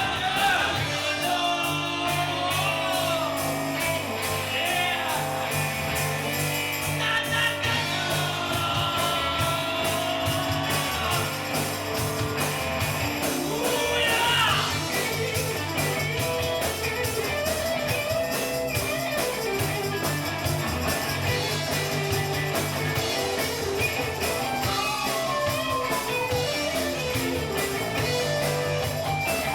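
Rock band music: guitar with gliding melodic lines over a steady bass line and cymbal-driven drums.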